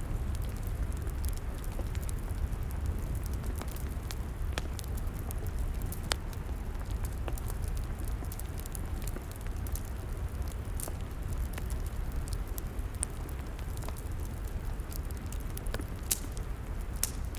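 Log fire crackling, with scattered sharp pops and snaps over a steady low rumble; a few louder pops stand out near the end.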